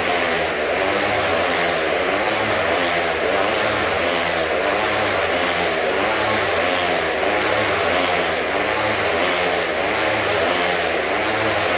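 Stunt motorcycle engine running steadily at speed, its pitch rising and falling in an even rhythm about once a second.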